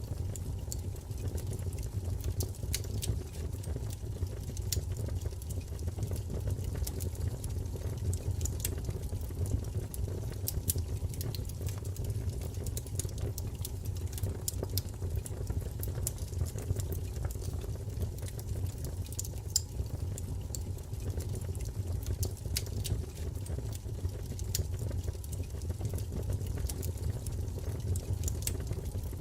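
Wood fire burning in a fireplace: a steady low rumble of flames with frequent, irregular small crackles and pops throughout.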